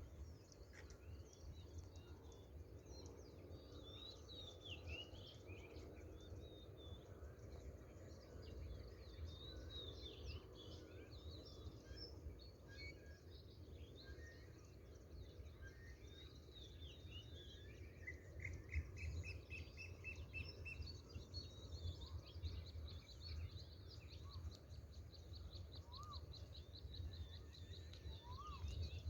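Several birds chirping and calling, faint, with quick runs of repeated notes in the second half, over a steady low outdoor rumble.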